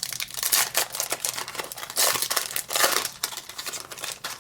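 Foil Pokémon TCG booster pack wrapper crinkling as it is torn open and handled, loudest about halfway through.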